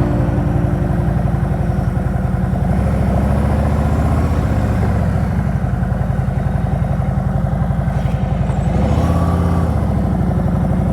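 Harley-Davidson Road King Special's V-twin engine running steadily under way, with a quick rise and fall in engine pitch about nine seconds in.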